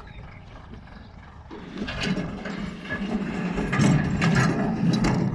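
A machine running with a rattling, clattering noise, setting in about a second and a half in and growing louder.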